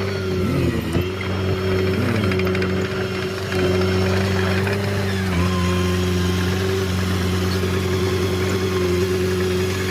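Heavy diesel engine running steadily at low revs, with a slight step in pitch about halfway through.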